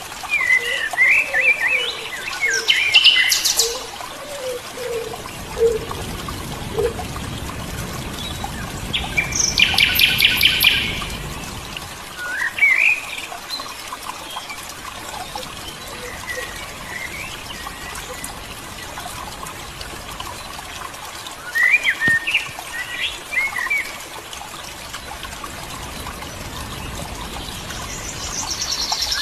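Several birds chirping and calling, with short rapid trills that are loudest about three and ten seconds in, over a steady background hiss.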